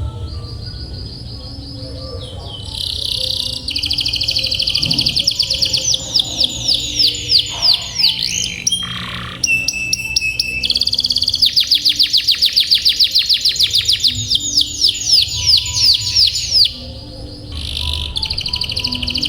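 Domestic canary singing: long, fast rolling trills of high notes, with a couple of brief breaks between phrases.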